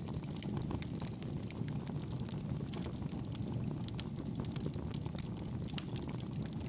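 Wood fire burning in a fireplace: a steady low rumble of the flames with many small, irregular crackles and pops from the burning logs.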